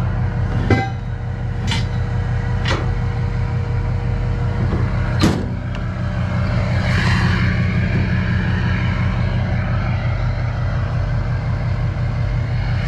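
Vehicle engine running steadily with a low, even hum, and four sharp knocks in the first half, the first and last the loudest.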